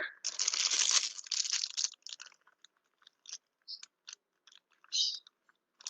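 A clear plastic bag crinkling and rustling as it is handled and tied shut with thread. There is a dense burst of crinkling in the first two seconds, then scattered small crackles.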